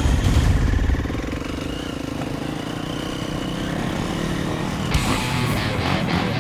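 Two-stroke dirt bike engines running with a fast, steady buzz. Guitar music comes in about five seconds in.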